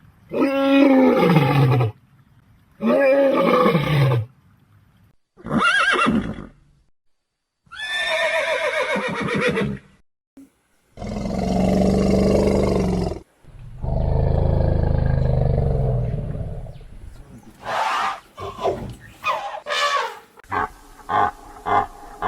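A series of separate wild animal calls with short pauses between them. First come two loud cries that fall in pitch, then a short call and a longer pitched one, then two deep, drawn-out roars, and near the end a quick run of short repeated calls.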